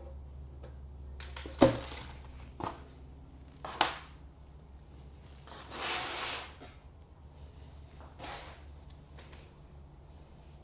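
Masking tape being handled and laid on a metal rotor blade: a few sharp taps and knocks, then a short rasp of tape pulled off the roll about six seconds in and another briefer one near eight seconds. A low steady hum runs underneath.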